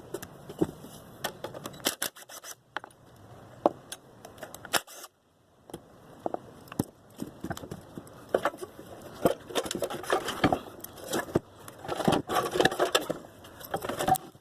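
Irregular metallic clinks, taps and scrapes of hand tools and parts as a go-kart engine is worked loose and lifted off the frame, getting busier in the second half. There is a brief break about five seconds in.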